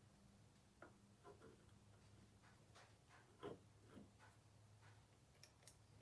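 Near silence: a faint steady low hum with scattered soft clicks and taps, and a quick run of sharper ticks near the end.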